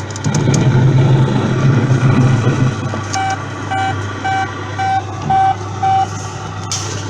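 Dumper truck kiddie ride playing its sound effects through its speaker: a truck engine rumble for about two and a half seconds, then six reversing beeps, nearly two a second, over a steady low hum.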